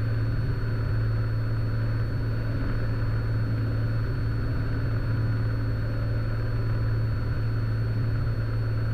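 Cessna Skylane's piston engine and propeller droning steadily in cruise, heard inside the cockpit.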